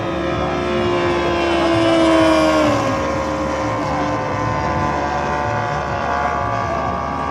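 Saito three-cylinder radial engine of a giant-scale RC AT-6 Texan model running steadily in flight. It makes a fly-by: it grows louder to about two seconds in, then drops in pitch as it passes.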